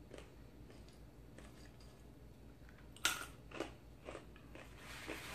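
Someone chewing crunchy oven-roasted chickpeas, with a sharp crunch about three seconds in and a couple of softer crunches after it.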